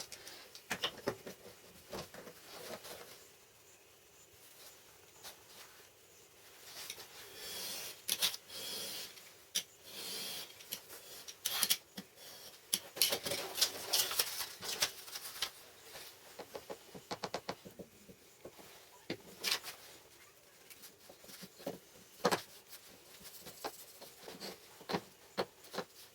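Scattered light clicks and taps, irregular and coming in clusters, with some rustling between them, thickest in the middle stretch.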